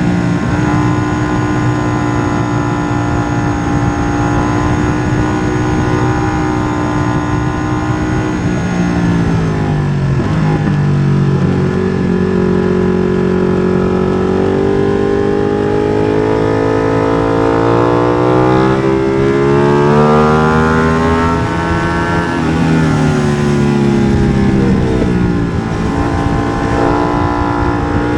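Ducati Streetfighter V2's 955 cc L-twin running hard through an MIVV exhaust with the dB killer removed. The revs hold steady, drop sharply about eight seconds in, climb again, fall a second time past the twenty-second mark, then climb and hold.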